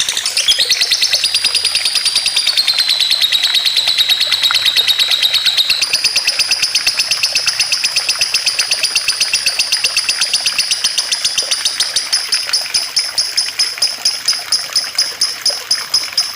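A songbird's rapid trill of high chips, repeated steadily and without break. Its pitch steps down about two and a half seconds in, jumps back higher about six seconds in, and the chips spread slightly slower toward the end.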